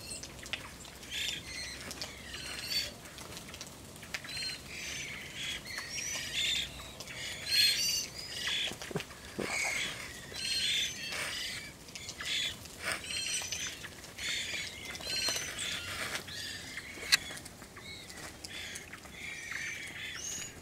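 A flock of varied thrushes calling and trilling over one another, many short high chirps and warbles overlapping without a break.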